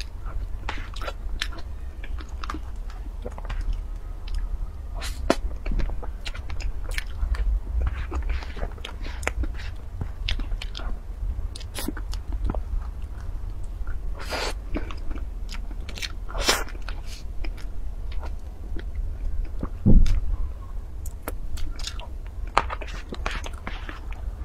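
Close-miked eating of soft cream cake: wet chewing and mouth smacks with many short, sharp clicks scattered throughout, over a steady low hum. One louder knock about 20 seconds in.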